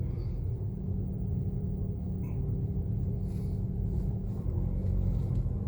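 Car driving along, heard from inside the cabin: a steady low engine and road rumble.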